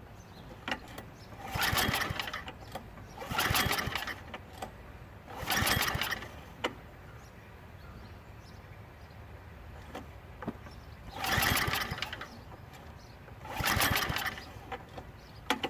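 Small gas engine on a Craftsman snowblower being pull-started five times. Each pull cranks it over for about a second without catching, with a longer pause before the last two pulls. The engine, freed up after being seized, wants to fire but does not start.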